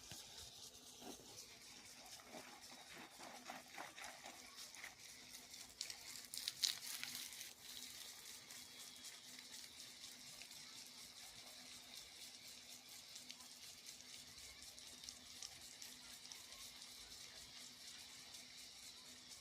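Faint steady hiss of sprinkler irrigation water spraying and pattering onto a field, with a steady low hum underneath. A brief louder crackling rush comes about six to seven seconds in.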